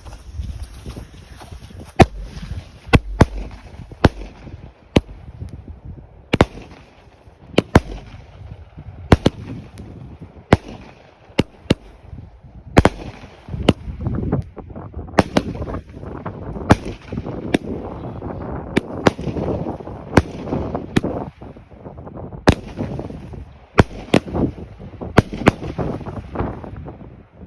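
A 16-shot 200 gram consumer firework cake firing, a long string of sharp bangs about one a second, with crackle and hiss between the reports.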